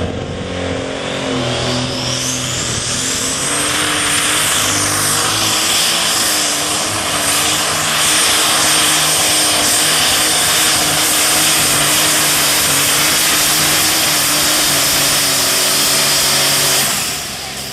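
Super stock pulling tractor's turbocharged diesel engine running loud at full power down the track. A high turbo whine rises over the first few seconds and then holds, until the engine cuts back sharply near the end.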